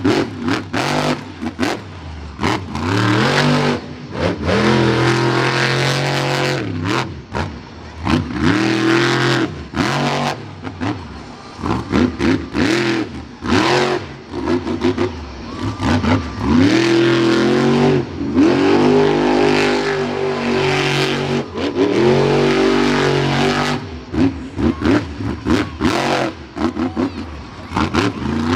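Monster truck engine revving hard and dropping off again and again during a freestyle run, with many sharp cracks mixed in.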